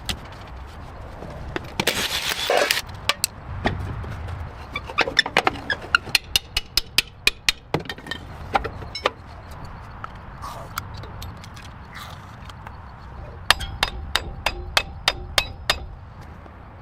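A run of sharp taps and clicks from hand tools at work, with a short hissing burst about two seconds in.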